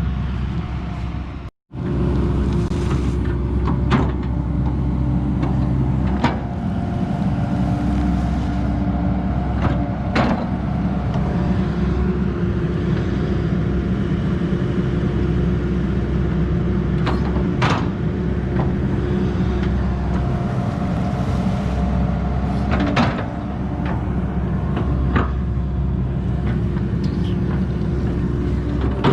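A JCB digger's engine running steadily while it digs foundation trenches, with scattered clanks and knocks from the digging.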